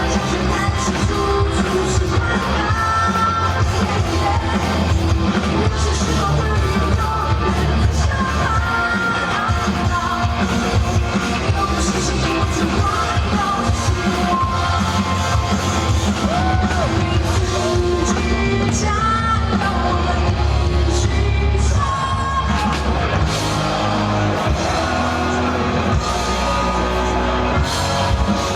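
A rock band playing live and loud, with a lead singer and shouted vocals over guitar and drums.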